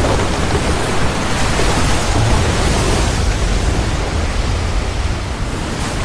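Heavy rain falling in a steady downpour, a loud, even hiss.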